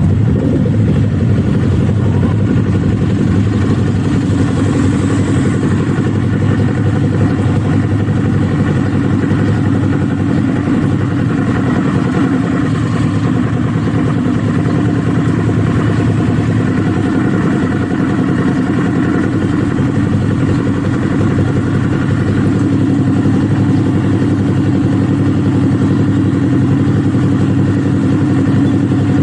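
Kawasaki Z400's parallel-twin engine running under way, its pitch holding fairly steady with only slight rises and falls.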